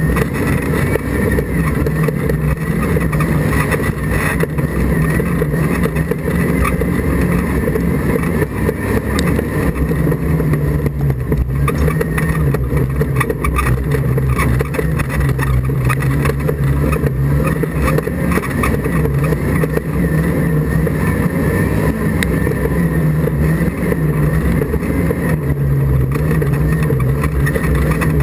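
Autograss race car's engine running hard, heard from inside the car, its revs rising and falling every few seconds through gear changes and corners, over a steady rushing noise.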